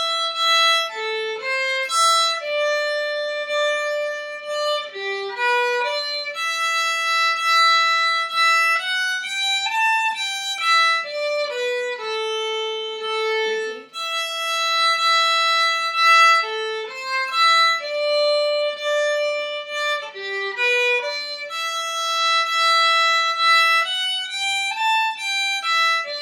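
A bowed string instrument playing a single-line string-method exercise melody in held notes. The phrase is played through once and starts over about fourteen seconds in for the repeat.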